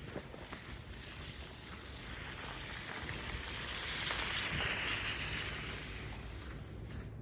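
A vehicle passing on a slushy, snow-covered street: its tyre hiss swells to a peak midway and fades away over a few seconds, over steady outdoor background noise.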